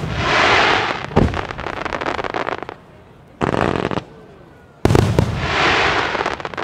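Aerial fireworks bursting: sharp bangs about a second in and again near five seconds in, each followed by a spell of dense crackling.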